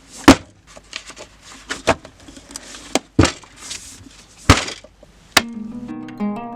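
A string of sharp knocks and clatters, irregular and several seconds long. About five seconds in, a last hit gives way to music of plucked-string notes in a light, stepping tune.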